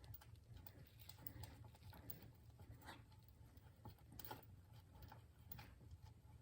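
Near silence: a faint low hum with a few light, scattered clicks and taps, such as small parts or tools being handled.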